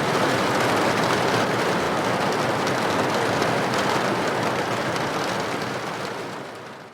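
Steady rain on a building window, a dense even patter of droplets that fades away near the end.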